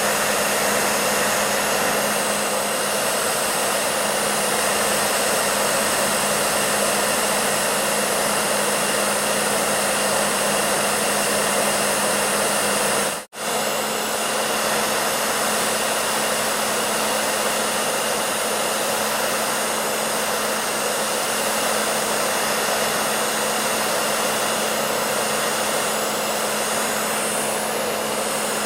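Hair dryer running steadily: a continuous rush of air over a low motor hum. About halfway through it cuts out for a split second, then carries on unchanged.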